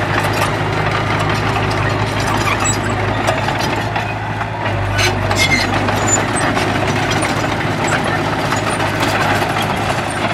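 Heavy diesel engine of an earthmoving machine running steadily, with a few sharp knocks about halfway through.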